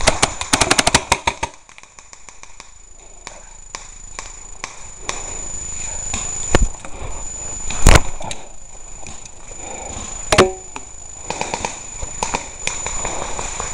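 Airsoft gun firing a rapid burst of shots in the first second and a half, followed by a few scattered sharp cracks and knocks.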